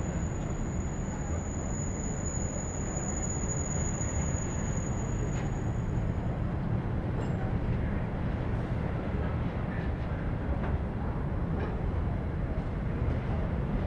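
Train running past: a steady low rumble of wheels on rail with faint clicks, and a thin high whine that fades out about halfway through.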